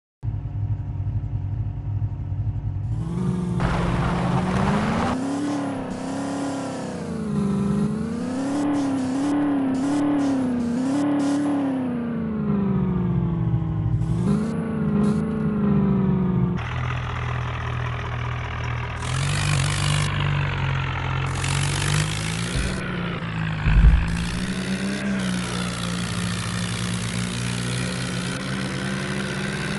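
Tractor engine sound revving up and down, its pitch rising and falling again and again, then settling into a lower, steadier running about halfway through, with a brief loud knock near the end.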